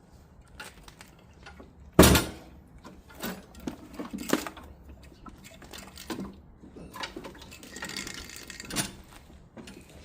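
Metal tools and parts being handled on a small snowblower engine: a loud clank about two seconds in, then scattered lighter knocks and rattles, with a short hiss around eight seconds in.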